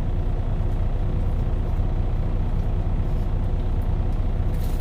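Semi truck's diesel engine idling with a steady low drone, with a brief rustle near the end.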